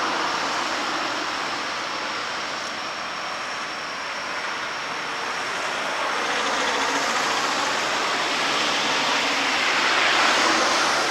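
Steady road-vehicle noise, a hiss that swells as a vehicle passes close near the end and then falls away.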